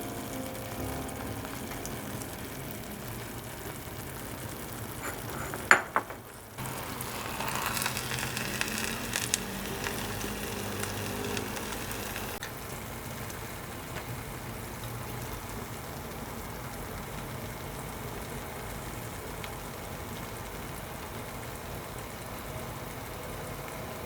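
Kimchi fried rice sizzling in a hot ttukbaegi earthenware pot, a steady crackle. A sharp knock comes about six seconds in, followed by a brief drop and then a few seconds of louder sizzling.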